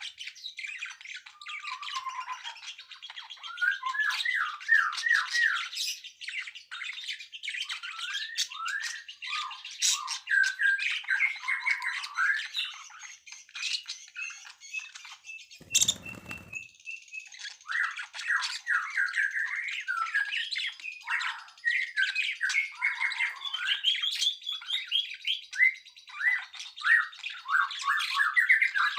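Songbirds singing and chirping in fast, overlapping runs of short sliding notes. A brief noise cuts across the song about halfway through.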